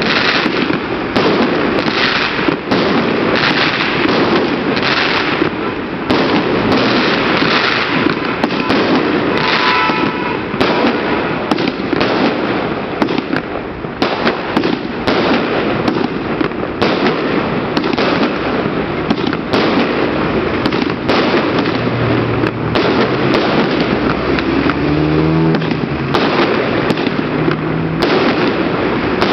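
Fireworks display: a continuous, dense barrage of bangs and crackling, with no pause.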